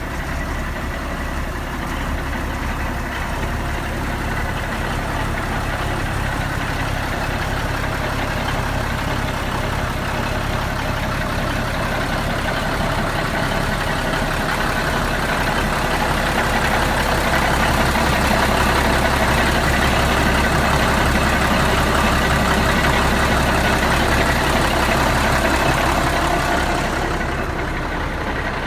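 1984 Ford winch tractor's engine idling steadily. It grows louder for a stretch in the second half and eases back near the end.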